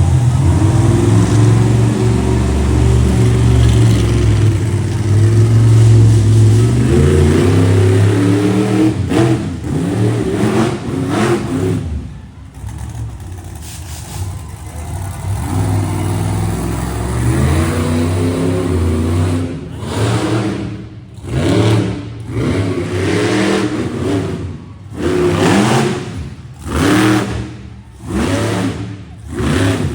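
Monster truck engine running loud and steady, then after a short lull revving in a series of short bursts about once every second or so.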